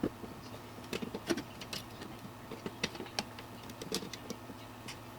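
Screws being driven into a computer case fan's plastic corner holes for the first time, cutting their own threads: a string of irregular small clicks and creaks.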